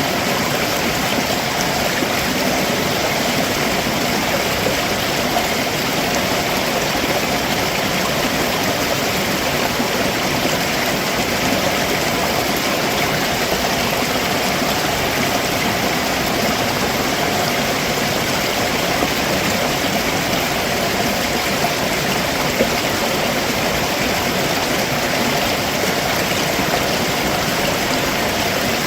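Stream water running over rocks below a waterfall: a steady, even rushing with small gurgles and splashes.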